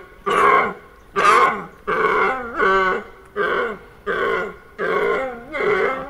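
Fallow deer buck groaning: a run of short, deep, belching calls, about eight of them, repeated roughly every three-quarters of a second.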